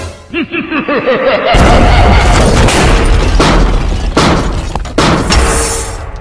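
Sci-fi weapon sound effects: a rapid run of pitched zaps sweeping up and down in the first second and a half, then a loud explosion with a deep rumble, broken by several more blasts.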